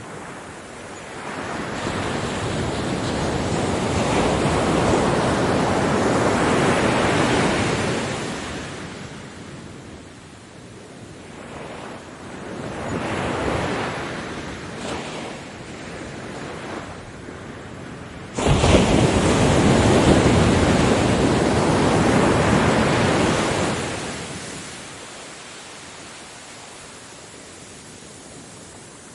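Ocean waves breaking and washing up on a beach, the surf rising and falling in surges. Two large waves, the second arriving suddenly about two-thirds of the way through, with smaller washes between them.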